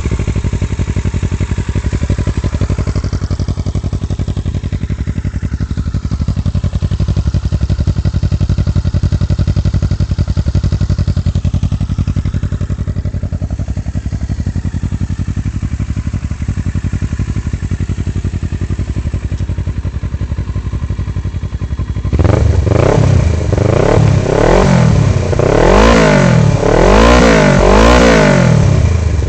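2009 Kawasaki Versys 650's parallel-twin engine idling steadily through a Jardine GP-1 aftermarket exhaust with the quiet tip left out, very loud. Near the end it is revved in a quick string of throttle blips, each rising and falling.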